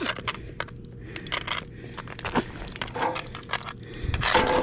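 Irregular clicks, knocks and scraping on rocky ground as a freshly landed channel catfish thrashes, with a louder scuffle and thump about four seconds in.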